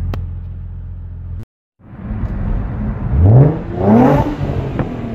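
Infiniti G35's V6 running through a loud aftermarket exhaust (straight-piped resonators, X-pipe and Invidia Gemini muffler): a steady idle, then after a short break two quick revs rising in pitch, about three and four seconds in.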